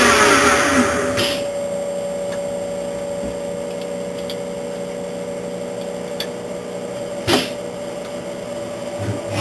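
Upgrade Technologie GT-27 CNC lathe: the spindle motor's whine falls away at the start, leaving the machine's drives humming steadily. A few light clicks and one sharper knock about seven seconds in come over the hum.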